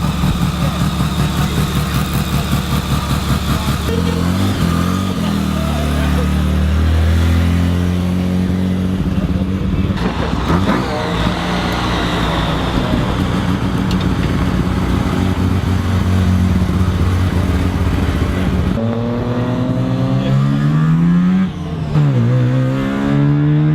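Car engines at a meet: one idles with an evenly pulsing throb, then engines rev, the pitch climbing and falling a few seconds in and again near the end.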